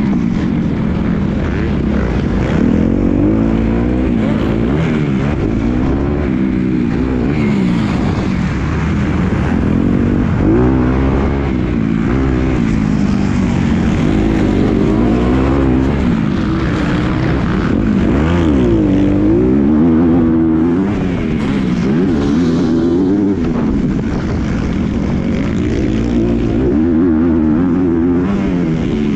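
Motocross bike engine under race riding, its pitch repeatedly rising and falling as the throttle opens and closes through gear changes.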